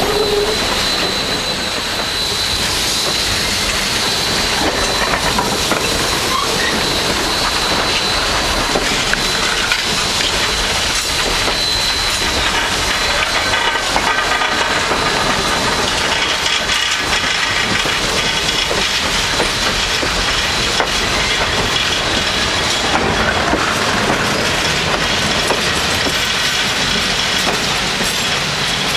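Passenger coaches of a steam-hauled train rolling past close by over a wooden trestle: a steady loud rumble of wheels on rail with clickety-clack over the rail joints. A thin, steady high tone rides over it for roughly the first dozen seconds, then fades.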